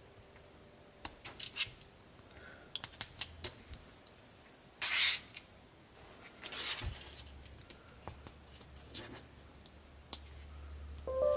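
Hard plastic Lego Technic parts clicking and tapping in a scattered series, with two short rustling swishes about five and seven seconds in. Music comes in at the very end.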